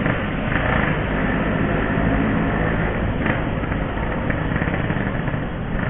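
Yamaha RX-King 135 cc two-stroke single-cylinder motorcycle engine running steadily while riding, mixed with steady wind and road noise.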